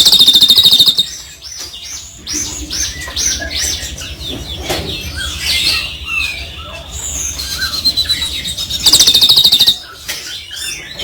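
Songbird singing: a run of varied chirps and whistled notes, broken by two loud, rapid rattling trills of about a second each, one at the start and one near the end.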